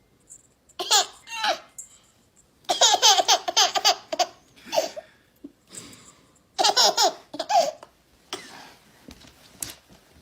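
A baby laughing in several hearty fits, about a second in, from about three to four seconds in, and again near seven seconds, with quieter breathy giggles between.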